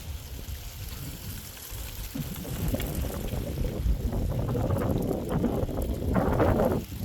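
Gusty wind buffeting the microphone, a low rumbling rush that builds over several seconds to its strongest gust near the end and then drops off abruptly.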